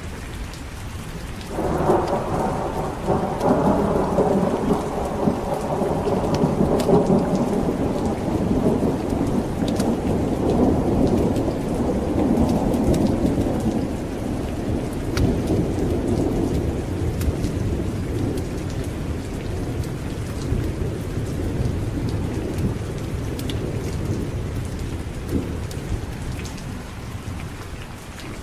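Heavy rain falling steadily while a long roll of thunder breaks in suddenly about a second and a half in. The thunder rumbles loudest over the next dozen seconds, then slowly dies away into the rain.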